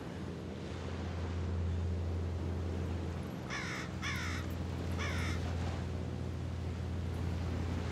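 A bird cawing three times in quick succession, about halfway through, over a steady low hum and a wash of wind and water noise.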